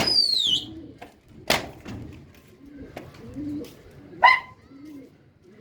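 Pigeons cooing softly. A sharp falling whistle comes at the start, a single sharp clap about a second and a half in, and short sharp yelps, likely from a dog, near the end.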